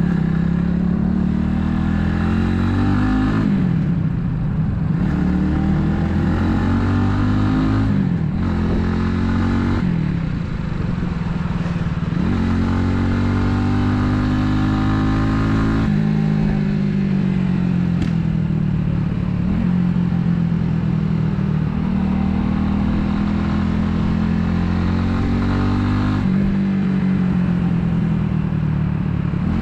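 Italika 250Z's single-cylinder four-stroke engine under way, accelerating through the gears: the revs climb and drop sharply at each shift, about five times.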